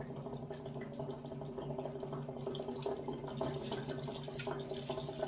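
Hot water running and spattering out of a gas water heater tank as it is drained, over a steady low hum.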